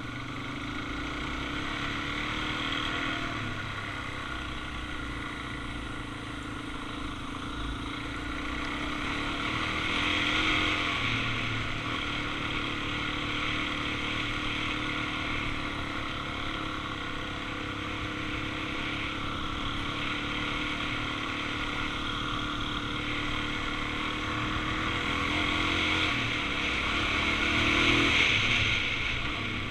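Suzuki DR-Z400's single-cylinder four-stroke engine running under way, heard from on board with wind rush. The engine gets louder about ten seconds in and again near the end.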